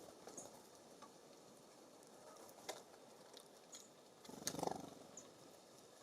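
Small birds at a feeder, quiet overall: faint short high chirps now and then, a sharp tap a little before three seconds in, and a short low rustle with a knock about four and a half seconds in, the loudest sound.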